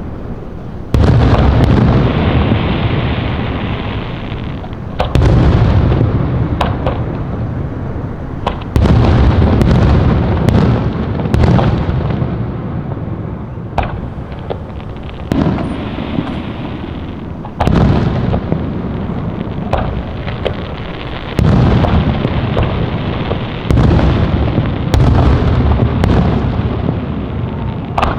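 Aerial fireworks bursting, about a dozen sharp booms a few seconds apart. Each boom is followed by a long low rumble that dies away as the next shell goes off.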